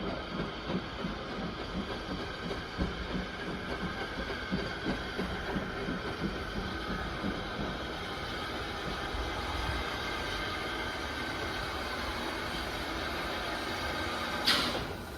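A train running on the railway, with an uneven low beating that settles into a steady rumble about halfway through. A brief sharp noise comes near the end.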